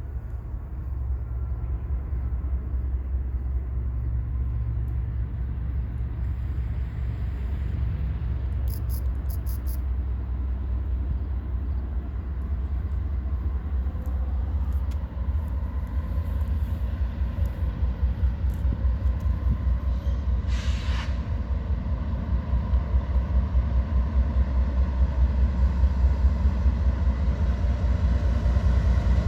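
Diesel freight locomotives running with a steady low rumble as the train pulls out, growing louder with a fast pulsing over the second half. A short hiss of air comes about two-thirds of the way through.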